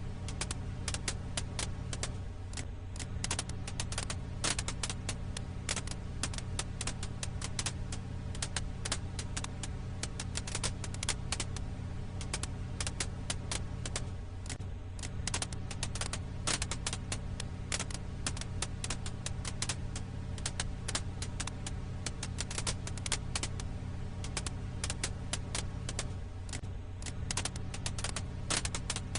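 Wood fire crackling: dense, rapid small pops and snaps over a steady low rumble. The same stretch loops about every twelve seconds.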